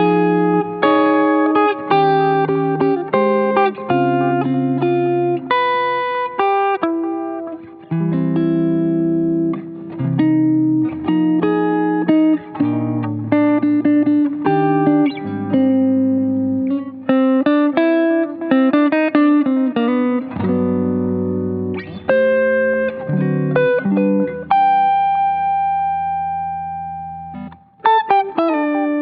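Electric guitar, a Fender Stratocaster, played through an analog delay pedal and amp modeller with a warm clean tone: a run of picked chords and single-note phrases. About 24 seconds in, a chord is held and rings out as it fades, and a new phrase starts just before the end.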